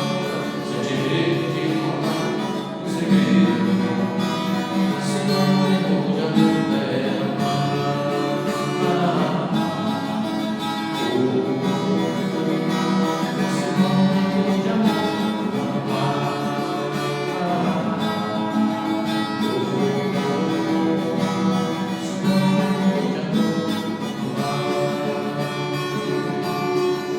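Acoustic guitar played, strummed and plucked, in an instrumental passage of a song.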